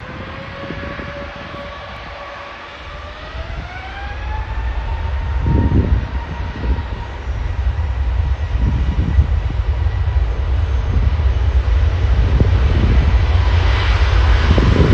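Airbus A350's Rolls-Royce Trent XWB turbofan engines spooling up for takeoff: a whine that rises in pitch over a couple of seconds, then a deep rumble that grows steadily louder.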